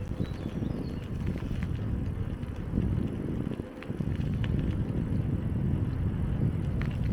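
Bicycle riding along a dirt forest trail: a steady low rumble of the tyres rolling over the ground, with scattered small clicks and rattles.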